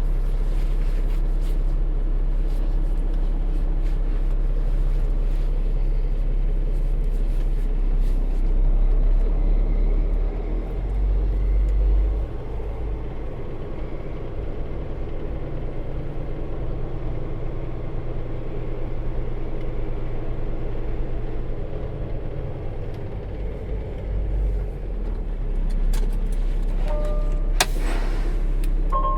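Semi truck's diesel engine running steadily with a deep, even rumble, heard from the cab. A few sharp clicks near the end.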